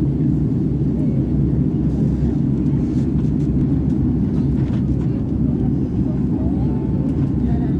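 Steady low rumble of an Airbus A330 airliner's twin turbofan engines and airflow in flight, heard as cabin noise.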